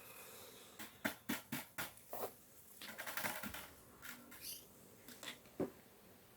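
A string of light clicks and knocks with a short scraping rustle about three seconds in, from small hard objects being handled and set down.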